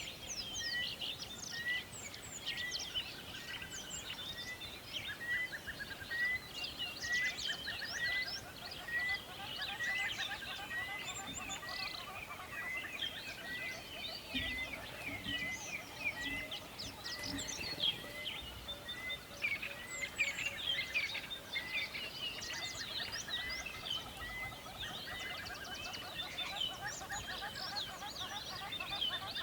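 A chorus of many songbirds singing and chirping over one another, with one bird repeating a short rising note about twice a second for much of the stretch, drops out for several seconds, then comes back near the end. Under it runs a steady hiss of flowing river water.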